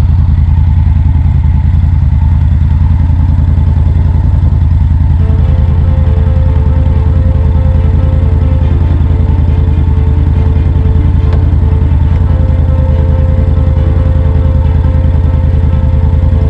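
Motorcycle engine running steadily with a deep, even rumble. Music comes in faintly underneath about five seconds in.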